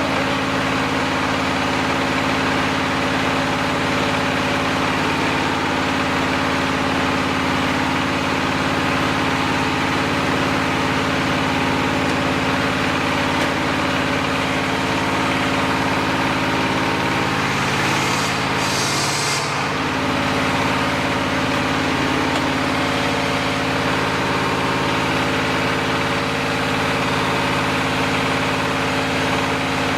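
Diesel engine of an HR1-25 clay brick-making machine running steadily at a constant speed. A brief hiss comes a little under two-thirds of the way in.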